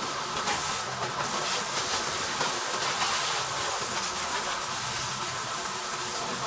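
Steady hiss of a water spray, with a faint low hum underneath.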